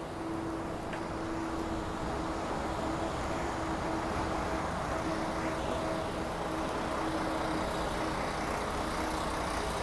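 City street traffic: a steady rumble of vehicles, with an even hum from a nearby engine.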